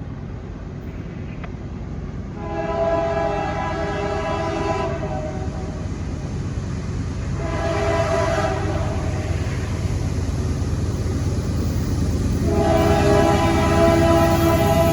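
Freight locomotive horn sounding three blasts, a long one, a shorter one and another long one still going at the end, over the growing rumble of the approaching GE diesel locomotives working hard as they pull a long train up a grade.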